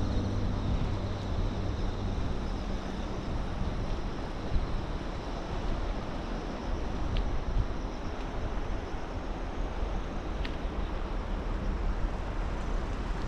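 Steady rushing noise of wind on a bicycle-mounted action camera while riding, with two faint clicks in the middle.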